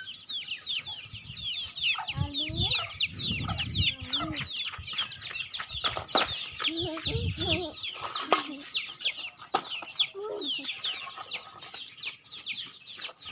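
A flock of chickens: lower clucking calls come in short runs a few times. Under them runs a constant dense chatter of high, quick, falling peeps, and there are occasional sharp knocks.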